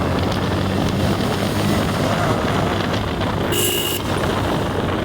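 Steady engine, road and wind noise of a motorcycle ride in traffic, with a short vehicle horn toot about three and a half seconds in.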